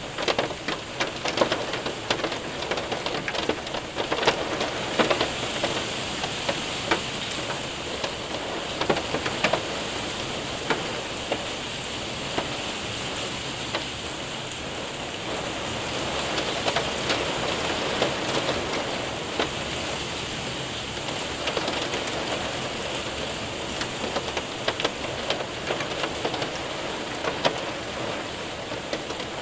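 Rain and hail hitting a window and roof: a steady wash of rain with many sharp ticks of hailstones scattered through it, thicker near the start and the end.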